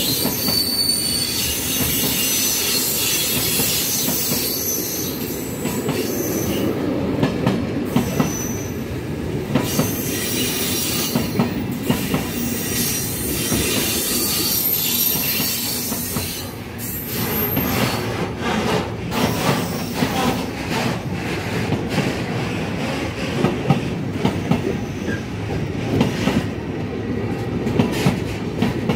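Freight wagons carrying semi-trailers rolling past on the rails: a steady rumble of wheels on track, with high-pitched wheel squeal in the first several seconds. From a little past halfway there is a run of sharp clicks of wheels over rail joints.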